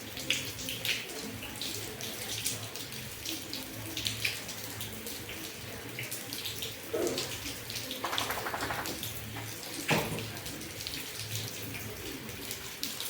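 Steady rain falling, with many drips and splashes of water. A short buzzing rattle comes about eight seconds in, and a sharp knock follows near ten seconds.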